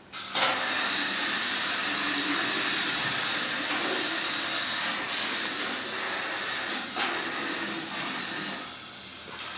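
Steady hissing steam sound effect from a Percy toy engine, switching on abruptly just after the start and running on without a break.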